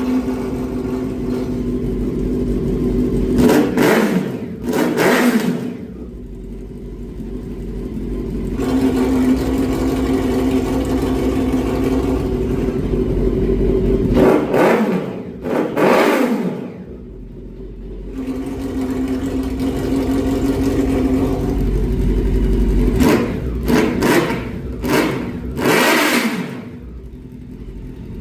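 Four-cylinder Ducati-replica sport bike engine idling steadily and revved in sharp throttle blips, each rising quickly and falling back to idle: two after a few seconds, two more around the middle, and a quick run of about five near the end.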